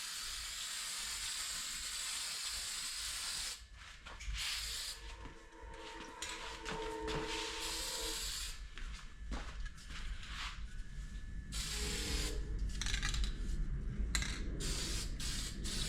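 Aerosol spray can hissing as a coat is sprayed over the wood: one long burst of about three and a half seconds, then shorter bursts with pauses.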